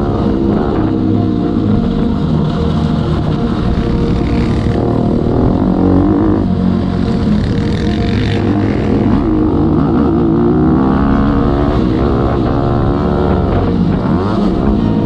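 Motocross bike engine revving hard, its pitch climbing and dropping again and again as it is ridden around the track.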